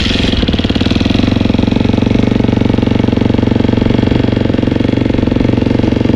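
Dirt bike engine, kickstarted cold with the choke out, catching right at the start and then running at a steady idle with a rapid, even pulse.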